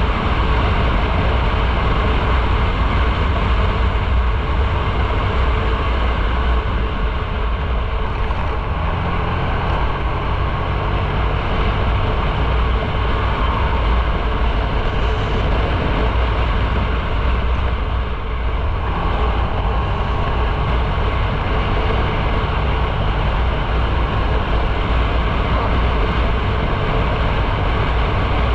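Motorcycle riding on the road: steady, heavy wind rush on the microphone over the engine and tyres. A faint engine note comes through about nine seconds in.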